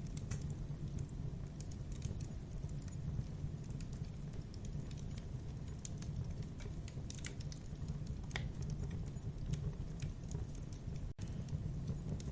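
Wood campfire crackling, with irregular sharp pops and snaps over a steady low rumble of the burning fire.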